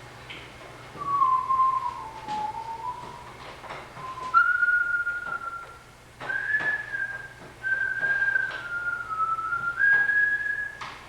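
A person whistling a tune: held notes that start about a second in, dip, then climb higher after about four seconds. A few faint clicks sound behind it.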